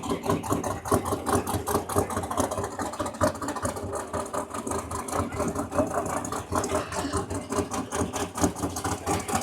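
Truck engine idling with a rapid, even pulsing beat.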